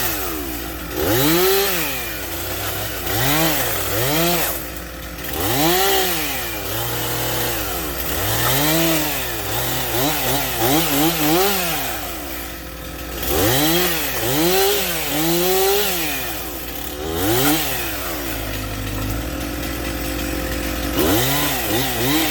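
Chainsaw revving up and falling back over and over while cutting through a felled tree to chop it in half, with a steady low engine hum underneath.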